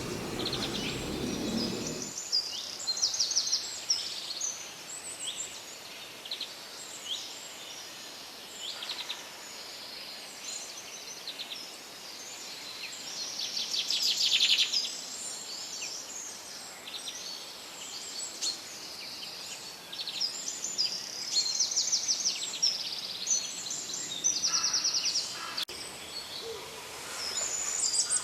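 Several birds chirping and trilling, with short, rapid trills repeating throughout. A duller, lower noise underneath stops about two seconds in.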